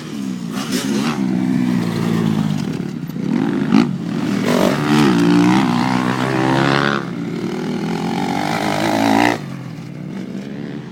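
Motocross motorcycle engines revving up and down as the bikes ride the track. The sound grows louder about four seconds in and drops off sharply near the end.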